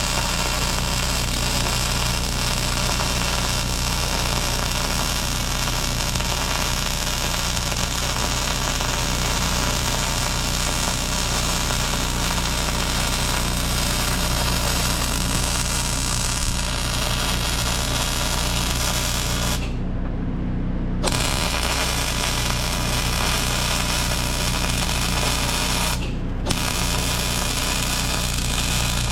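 Arc welding crackle while a root pass is laid on a steel weld joint, over a steady low hum. The arc breaks off for about a second roughly two-thirds of the way through, then stops again briefly near the end.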